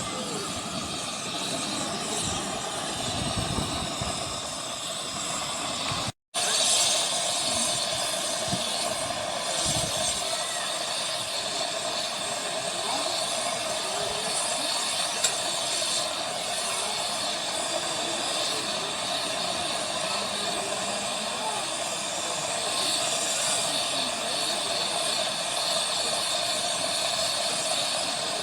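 Miniature 15-inch-gauge steam locomotive standing at the station, steam hissing steadily. The sound drops out completely for a moment about six seconds in.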